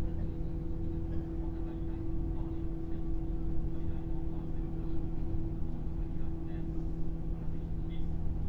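Inside a JR 103 series commuter train motor car with MT55 traction motors: steady low rumble with a constant hum from the motors and gearing, and faint passenger voices in the background.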